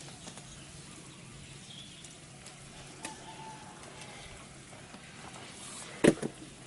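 Quiet outdoor background with a few faint bird calls, and one sharp knock about six seconds in.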